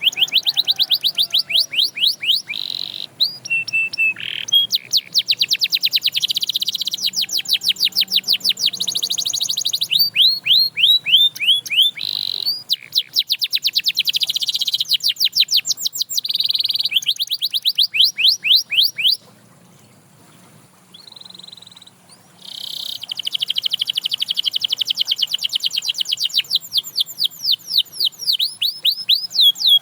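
Domestic canary song: fast trills of rapidly repeated sweeping notes, with long held rolls. The song breaks off for about three seconds two-thirds of the way in, then resumes.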